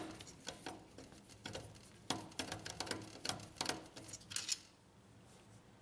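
Screwdriver driving a screw into a laser printer's fuser unit: a faint, irregular run of small clicks and scrapes that stops about four and a half seconds in.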